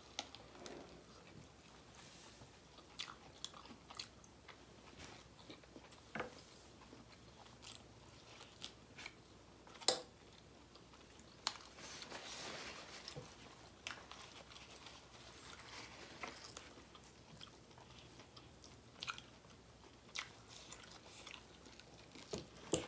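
Close-up eating sounds of people chewing and biting rice, duck curry and raw vegetables by hand: soft, low-level mouth noises with scattered sharp clicks and crunches, the loudest click about ten seconds in.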